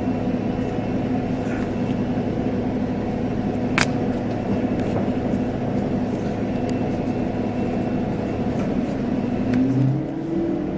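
Scania K230UB bus's diesel engine running at a steady note, then rising in pitch near the end as the bus accelerates. There is one sharp click about four seconds in.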